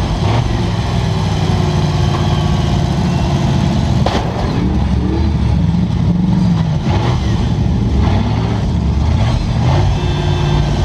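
Demolition derby cars' engines running and revving, several at once, with one sharp bang about four seconds in.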